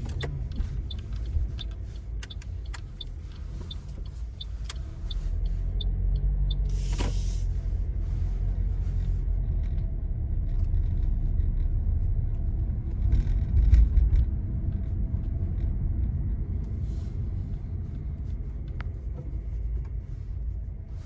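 Car driving along, heard from inside the cabin: a steady low rumble of road and engine noise with scattered small ticks and rattles. There is a brief hiss about seven seconds in and a louder low swell around the fourteenth second.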